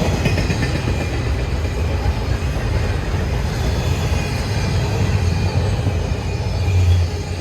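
Railroad cars of a train rolling past: a steady, loud low rumble that swells about seven seconds in and then drops off.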